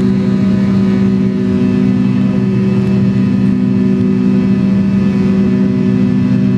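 McDonnell Douglas MD-83 jet engines (rear-mounted Pratt & Whitney JT8D-200 series turbofans) heard from inside the rear cabin: a loud, steady drone with a deep hum and several fixed whining tones over rushing air noise.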